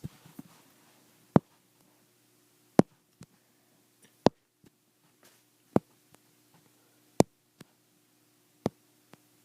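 Sharp single clicks or taps at an even pace, about one every second and a half, over a faint steady hum.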